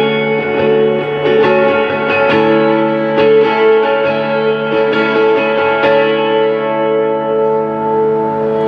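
Guitar playing the closing chords of a song: a chord struck about once a second, then a final chord left ringing for the last couple of seconds.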